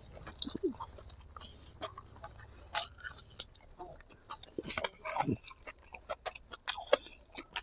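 Chewing and biting on spicy braised pig feet: a run of short, irregular wet mouth clicks and smacks, a few of them louder.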